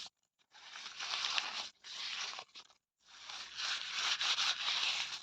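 Paper being torn in three long rips separated by brief pauses, the last one starting about three seconds in and carrying on.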